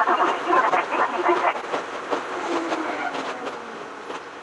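Ohmi Railway 100-series electric train (ex-Seibu 101 series) running, heard from inside the car: dense clattering of the wheels on the rails with many short clicks, growing quieter over the second half.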